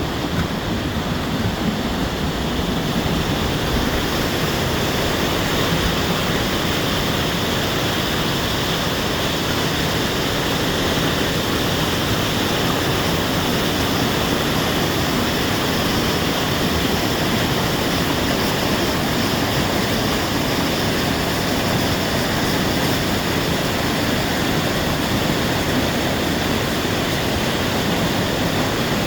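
Waterfall pouring: a loud, steady rush of water noise that stays even throughout.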